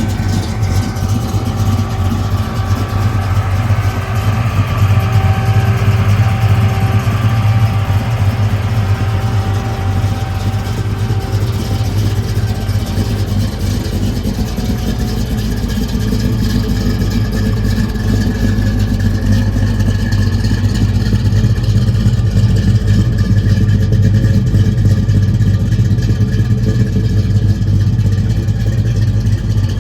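1967 Pontiac GTO's 400 cubic-inch V8 running steadily at a low, even engine speed, with a faint steady whine over it through the first half.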